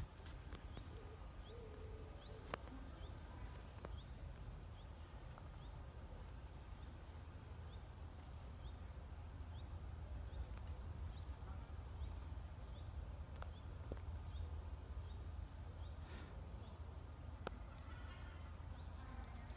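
A small bird calling one short, high note over and over, about one to two times a second, over a steady low rumble, with a few faint clicks.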